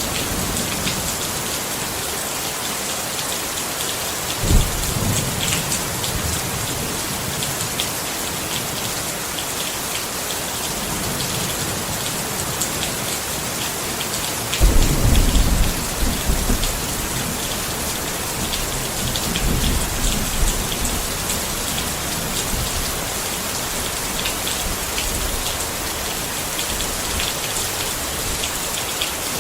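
Steady rain falling on a tent, with thunder: a short low rumble about four seconds in, and a longer, louder rumble around the middle.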